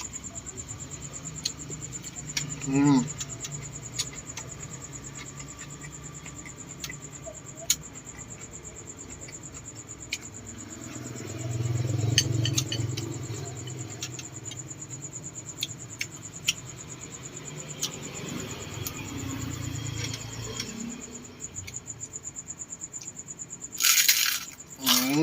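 Crickets trilling steadily, a fast pulsing high chirp, under scattered sharp clicks and muffled chewing as balut is eaten. A louder crunchy bite comes near the end.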